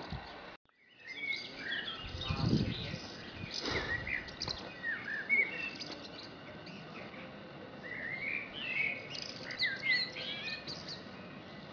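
Songbirds singing in the trees: many short whistled and gliding chirps from several birds, with a couple of low muffled bumps in the first few seconds. The sound cuts out briefly about half a second in.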